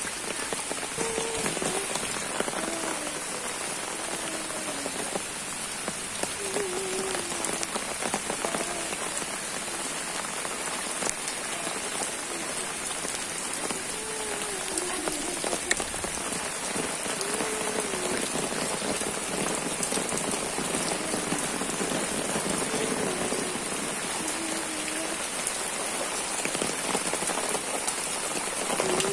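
Steady rain falling onto shallow puddles and wet ground, an even hiss of many drops.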